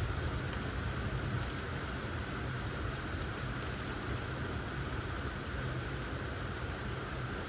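Steady rain falling as an even hiss during a thunderstorm, with a low rumble of distant thunder underneath that is strongest in the first second or so and then eases off.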